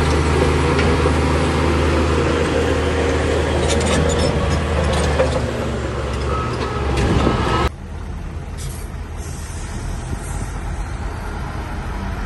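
Heavy diesel earthmoving machine working under load, a steady low engine note with scattered metallic clanks. About three-quarters through the sound drops suddenly to a quieter engine rumble, with a short hiss soon after.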